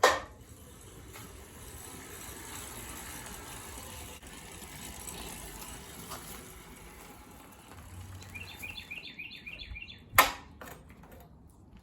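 Outdoor ambience: a steady hiss of background noise, with a short run of rapid high bird chirps about eight seconds in and a sharp knock near the end.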